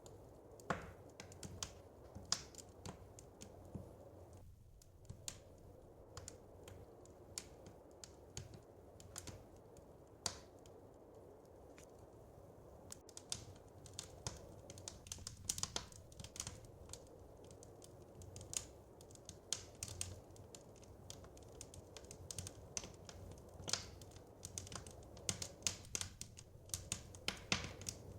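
Wood fire crackling: irregular sharp pops and snaps, more frequent in the second half, over a soft low background hiss.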